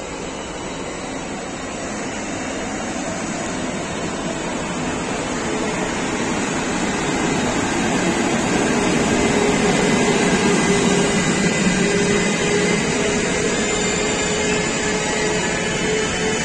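Siemens Vectron electric locomotive passing close at slow speed, hauling an intermodal freight train of pocket wagons carrying truck trailers. Steady rail rolling noise with a hum, growing louder over the first half as the locomotive draws level, then holding steady as the wagons roll by.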